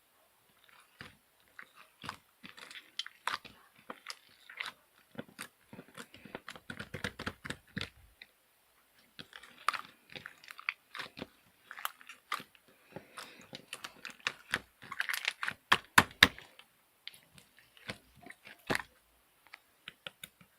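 A person chewing crunchy food: irregular crunches and clicks with short pauses, loudest about fifteen seconds in.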